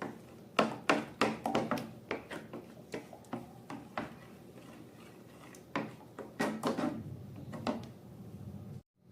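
Slime being worked by hand: irregular sticky clicks and pops in two flurries, with quieter crackling between them, breaking off abruptly just before the end.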